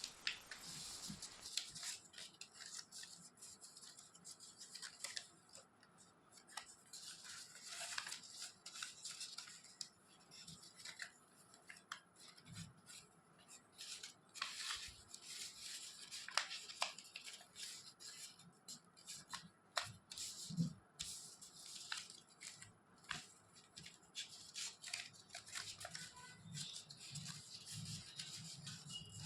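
Faint crinkling and rustling of origami paper being folded and creased by hand, with irregular short crackles and ticks.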